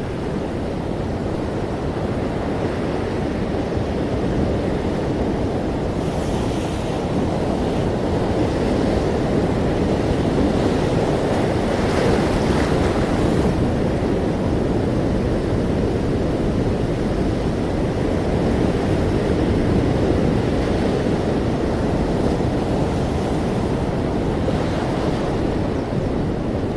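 Ocean surf: a steady low wash of waves, with a couple of hissing swells as waves break, about six and twelve seconds in.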